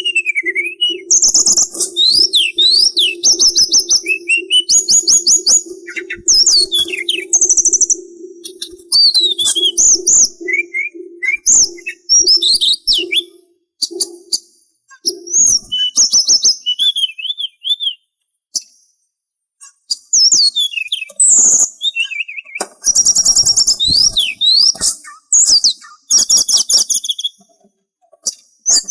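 Songbird of the kind sold as 'sulingan' in Indonesian bird-keeping, singing fast, varied whistles, trills and chirps, with rising and falling phrases in bursts separated by short pauses. A low steady hum runs under the song and stops about halfway through.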